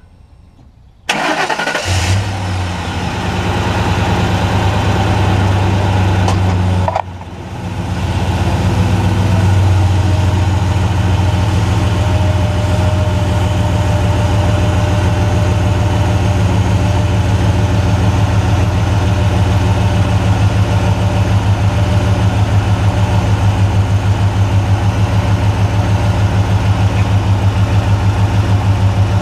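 A 2005 Ford Explorer's 4.6-litre V8, heard from under the truck, starts suddenly about a second in and runs steadily. The sound drops briefly about seven seconds in, then the engine runs on with a steady, regularly pulsing note as the truck drives slowly along.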